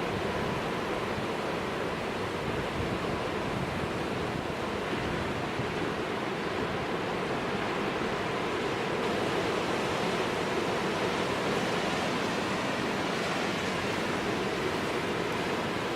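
Storm surf pounding steadily against a rock jetty, a continuous rush of breaking waves with strong wind across the microphone, swelling a little louder about halfway through.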